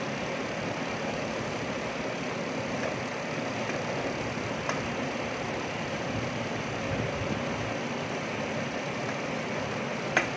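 Pork intestines sizzling in oil in a stainless steel pot while being stirred with a wooden spatula, a steady hiss. Near the end the spatula knocks once, sharply, against the pot.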